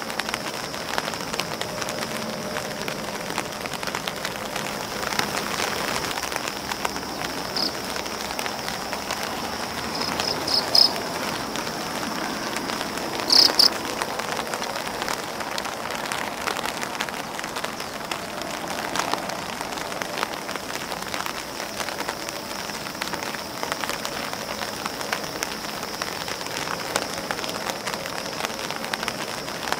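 Steady rain pattering on an umbrella and grass leaves, a dense, even spray of fine drop ticks. A few louder drop hits stand out about a third of the way through and near the middle.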